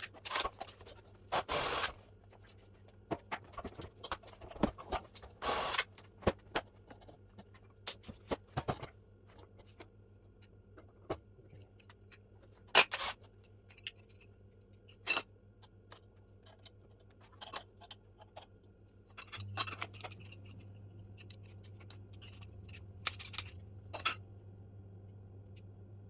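Irregular clicks, knocks and scrapes of hand tools and metal and plastic parts as a Bosch mitre saw is taken apart. About two-thirds of the way through, a low steady hum starts up.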